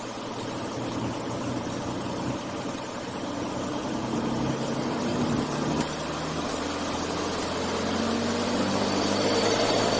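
Beechcraft A36 Bonanza's six-cylinder piston engine heard from inside the cockpit, growing steadily louder and rising in pitch as power comes up for the takeoff run.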